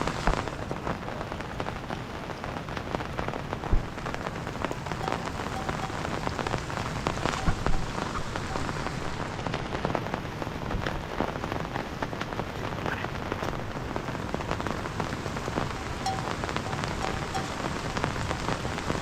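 Heavy rain falling steadily, with individual drops tapping close by. There are louder knocks about 4 seconds in and again at about 7.5 seconds.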